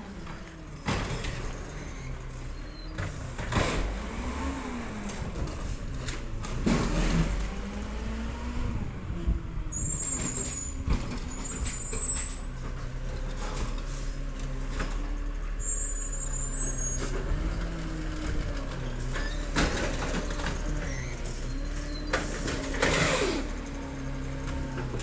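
Diesel engine of a Peterbilt 320 side-loader garbage truck running, its pitch rising and falling repeatedly, with scattered sharp knocks and clanks.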